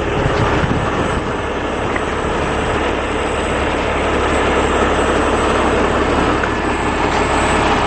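Peterbilt 389 heavy wrecker's diesel engine running steadily close by, with a thin, steady high whine over it.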